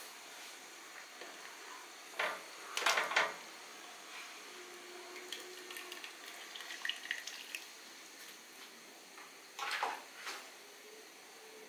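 Slotted spatula knocking and scraping against a cooking pot as poached scorpionfish pieces are lifted out of the water, with a few short clatters about two and three seconds in and again near ten seconds when the fish is set on a plate.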